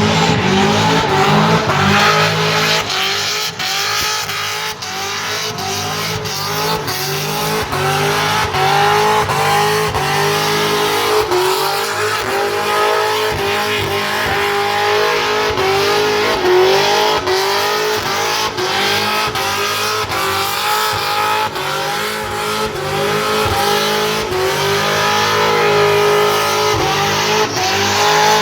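Farm truck doing a burnout: the engine held at high revs, its pitch wavering up and down over and over, with the tyres spinning and squealing.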